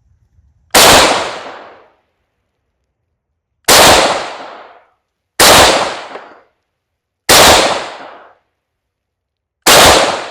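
Five rifle shots from a Yugoslav SKS semi-automatic rifle in 7.62×39 mm, fired one at a time between one and three seconds apart, each sharp report trailing away over about a second.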